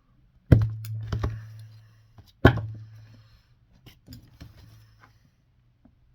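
Tools being worked at a cobbler's bench: a loud sharp knock about half a second in, a second just after, and another about two seconds later, each ringing briefly, followed by lighter clicks and clatter.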